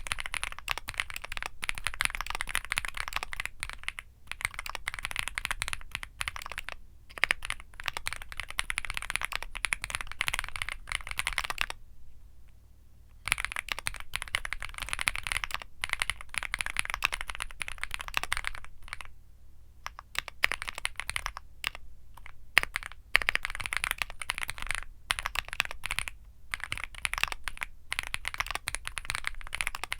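Fast, continuous typing on a Womier SK75 mechanical keyboard with Womier Mint Blizzard switches, in a dense run of key clicks. It breaks off for short pauses, the longest about twelve seconds in, and another around nineteen seconds.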